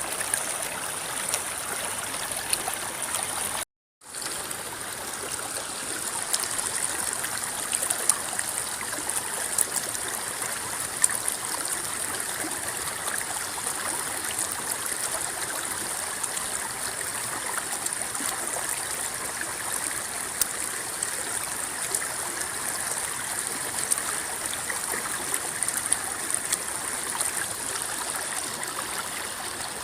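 River water flowing and rippling, a steady babbling with many small splashes. The sound cuts out completely for a moment about four seconds in.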